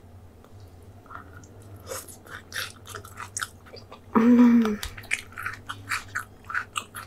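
Close-miked chewing of chewy jokbal (braised pig's trotters), with wet mouth clicks and smacks. About four seconds in, a short closed-mouth hum.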